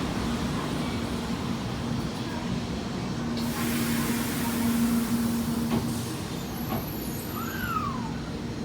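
Hikari Rail Star 700 series shinkansen train at the platform: a steady electric hum, with a hiss of released air from about three and a half seconds in that lasts a couple of seconds. A short falling whistle near the end.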